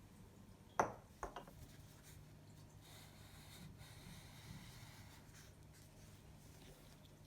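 A sharp knock about a second in, two lighter knocks just after, then faint, steady rubbing or scraping, like objects being set down and handled on a hard surface.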